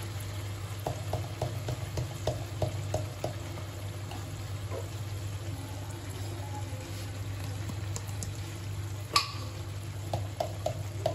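Onions and spices frying in oil in an iron kadai: a steady low sizzle over a low hum, with a few light taps and one sharp click about nine seconds in.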